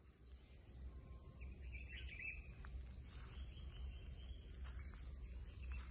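Several wild forest birds calling: a warbling call a second and a half in, a longer call around the middle, and short high chirps throughout, over a steady low rumble.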